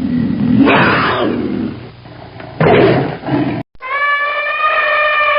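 A big cat growling and roaring in two loud, rough bursts. Just after the middle the sound cuts abruptly to a different, long, steady, high-pitched animal call.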